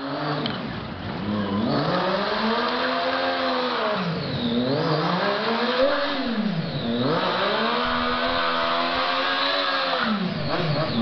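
Triumph 675 three-cylinder motorcycle engine revved hard in a burnout: it climbs and drops in pitch about three times. Under it runs the screech of the spinning rear tyre.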